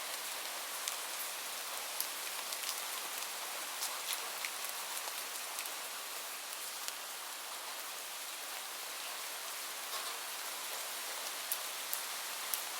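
Steady rain: an even hiss sitting mostly in the higher range, with many separate drops ticking sharply on a hard surface.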